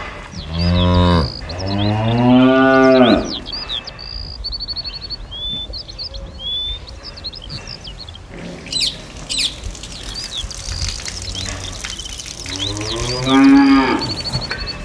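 A domestic cow mooing: two long moos back to back at the start and a third near the end, with short high chirps in between.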